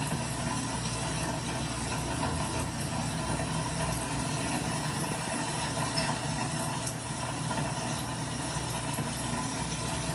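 Steady ambient background noise: a constant low hum under an even hiss, with no distinct events.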